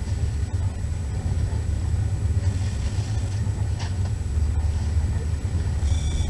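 Steady low rumble of a moving passenger train, heard from inside the carriage. Near the end a brief high ringing tone sounds over it.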